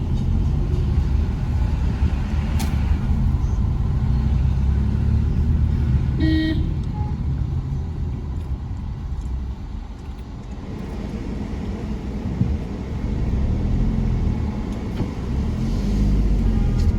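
Steady low rumble of a vehicle's engine and road noise on the move, easing off around ten seconds in and building again. A short horn toot sounds about six seconds in.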